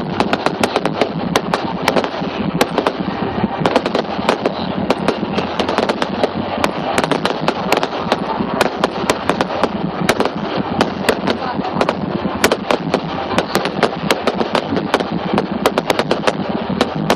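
Fireworks display going off in a dense, unbroken run of sharp cracks and bangs, many per second, over a steady wash of crowd noise.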